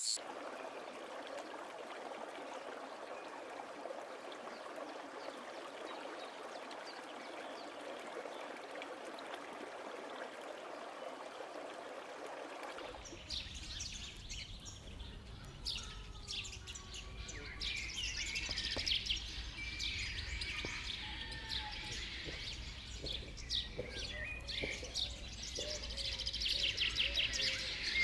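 Natural outdoor ambience: a steady, even rushing hiss for about the first half, then it changes to many birds chirping and calling over a low rumble.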